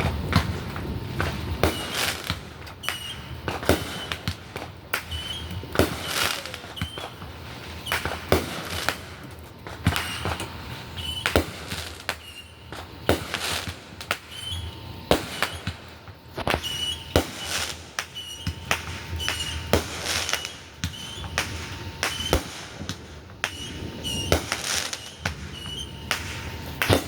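Fireworks going off: sharp bangs and pops at irregular intervals, roughly one a second, some in quick pairs.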